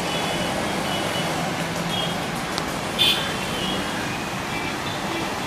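Steady background road traffic noise, with brief faint high tones and a short louder high-pitched sound about three seconds in.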